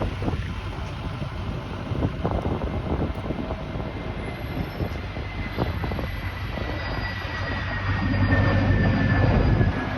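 Airbus airliner's jet engines on landing approach: a steady rumble with a thin whine that slowly falls in pitch, growing louder about eight seconds in. Wind gusts buffet the microphone throughout.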